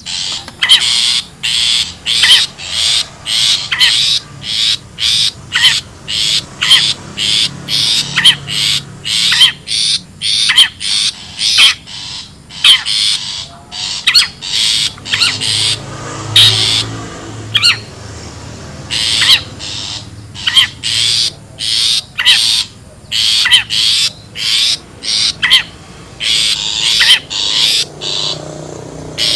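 Long-tailed shrike (cendet) calling: harsh, scratchy calls repeated about twice a second with a few short pauses, a bird-lure (pikat) call recording.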